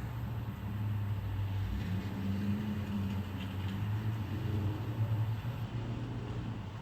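Car driving: a steady low drone of engine and road noise, with a slightly higher engine note swelling between about two and four seconds in.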